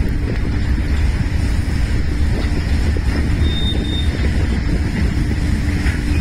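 Container freight train rolling past: a steady low rumble of wagon wheels on the rails with continual clatter.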